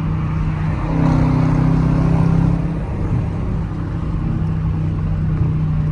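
Sports car engine running under way, getting louder about a second in as the throttle opens for a couple of seconds, then easing back to a steady cruise.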